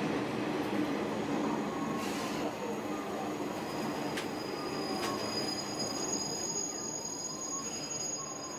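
JR Shikoku 1000 series diesel railcar running and slowing as it nears a station, heard from inside: a steady rumble of wheels and engine that slowly eases off. From about halfway a thin, steady, high-pitched squeal from the brakes joins it, with a couple of sharp clicks.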